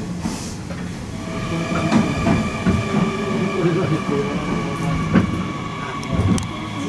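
Hanshin Railway train slowing to a stop at a station platform, heard from inside the car by the doors: a low running rumble with a few clicks, and a steady high-pitched whine that sets in about a second in as the train brakes.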